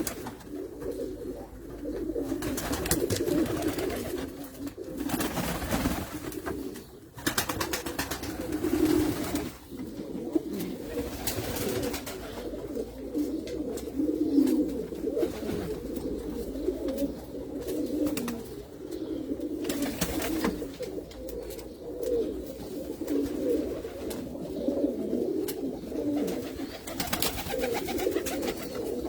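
Several fancy pigeons cooing continuously, their low coos overlapping with no break. Now and then a short noise cuts across the cooing.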